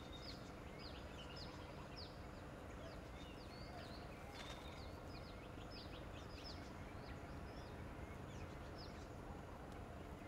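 Many short, high bird chirps, several a second, over steady low background noise; the chirps thin out in the second half.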